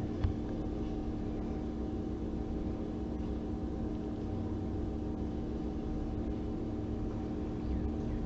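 Steady low background hum with a few faint constant tones, the drone of a fan or appliance running; one faint click just after the start.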